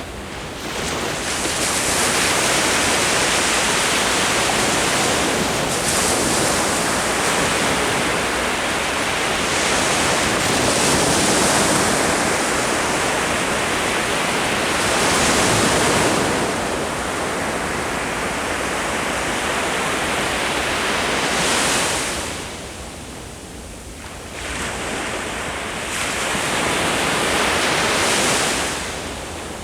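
Ocean waves breaking and washing up the shore: a continuous rush that swells and ebbs, dropping back briefly about three-quarters of the way in before the next wave builds.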